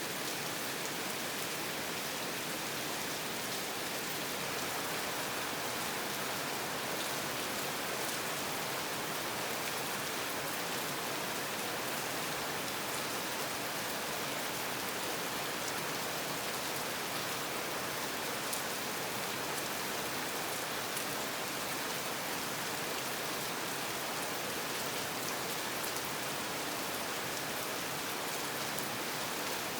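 Rain falling steadily: an even hiss with a few sharper drop ticks.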